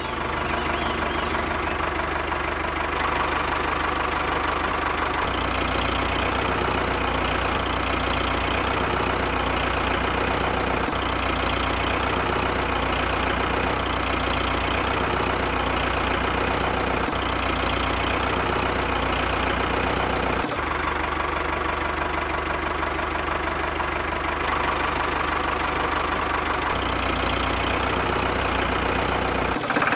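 Miniature diesel engine running steadily with a fast, even knocking rhythm, driving a small water pump.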